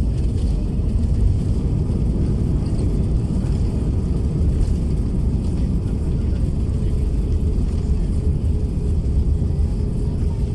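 Cabin noise inside an Airbus A321-200 rolling on the ground after landing: a steady low rumble with a faint steady hum above it.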